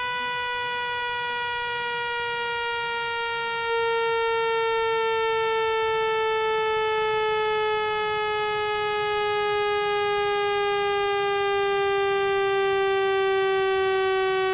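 Electronic speaker-cleaning tone, a buzzy tone rich in overtones, played to vibrate water and dust out of a phone speaker. Its pitch glides slowly and steadily downward, and it gets a little louder about four seconds in.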